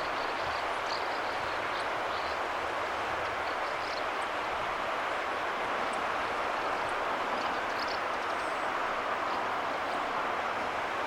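A steady rushing noise, even in level throughout, with a few faint, short, high bird chirps now and then.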